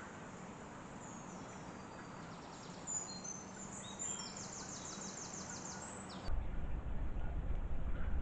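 Wild birds chirping, with a fast trill high up a few seconds in, over faint woodland ambience. About six seconds in, a steady low rumble sets in.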